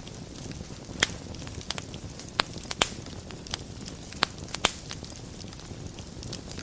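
Wood fire burning in a fireplace: a steady low rumble of flames with irregular sharp crackles and pops, the loudest about a second in and a cluster between roughly two and a half and five seconds.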